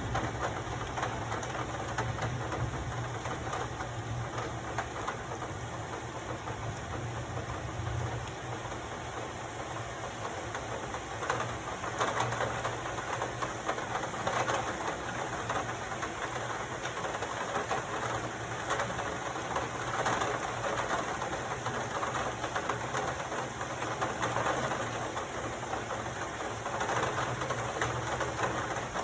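Heavy rain falling and pattering steadily, swelling a little at times, over a steady low hum.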